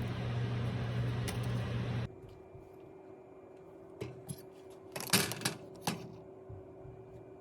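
A steady low appliance hum that cuts off abruptly about two seconds in. Then a few sharp clinks and scrapes of a spoon in a bowl, mixing powdered peanut butter and protein powder with water into a spread, with a quick cluster of them about five seconds in.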